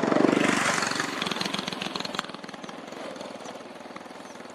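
A small engine running with a fast, even pulsing beat. It is loudest just after the start and fades away over the next couple of seconds, like a motorbike or similar small engine passing by.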